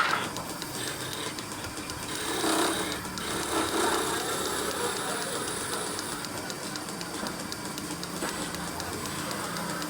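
Small woodworking machine running steadily with a rapid fine ticking, swelling louder twice as the tool works the wood.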